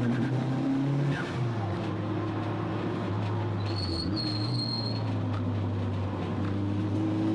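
Toyota Starlet EP91 race car's engine pulling hard, heard from inside the stripped cabin. The engine note dips briefly about a second in and again around four seconds, and a thin high whine sounds near the middle.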